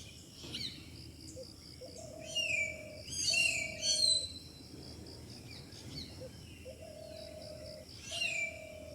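Several forest birds calling. One gives a steady low note about a second long, repeated in pairs, while others give sharp falling whistles and a brief loud chatter about three to four seconds in. A faint high pulsing runs underneath.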